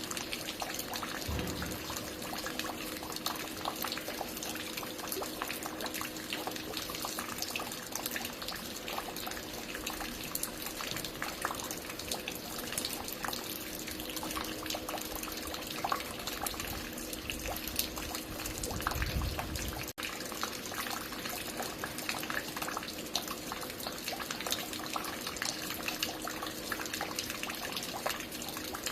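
Water falling and dripping at a construction site: a steady, dense patter of many drops and trickles, over a faint steady hum. A low rumble comes in briefly about a second in and again for a couple of seconds before a brief break in the sound near the end.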